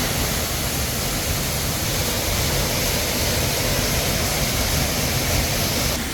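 Waterfall's falling water: a steady, even rush of noise that eases slightly just before the end.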